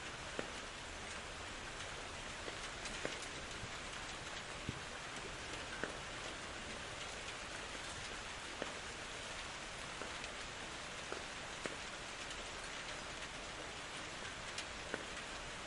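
Steady rainfall in a forest, an even hiss with scattered individual drops ticking loudly on nearby surfaces.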